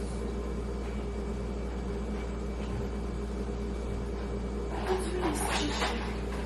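Steady low electrical hum of a running household appliance, with a short burst of rustling and light knocks from grocery packaging being handled about five seconds in.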